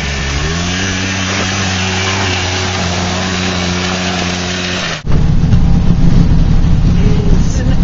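A car's engine drones steadily, rising in pitch for about a second as the car speeds up, then holding an even note. About five seconds in, an abrupt cut brings a louder, rougher low rumble of the vehicle running.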